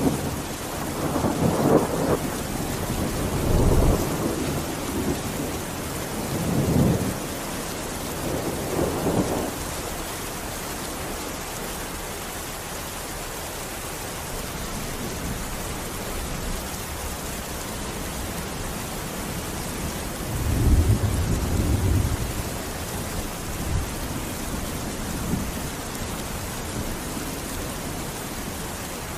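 Steady heavy rain, with low rolls of thunder several times in the first ten seconds and again around twenty seconds in.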